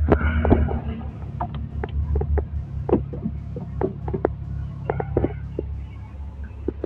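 Tata Ace Gold HT Plus diesel engine running with a steady low, rapid throb, with scattered sharp clicks and knocks over it.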